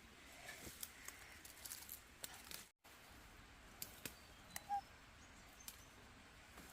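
Faint rustling and small sharp snaps of leafy plant stems being plucked by hand, over quiet outdoor hiss. There is a short chirp a little past the middle.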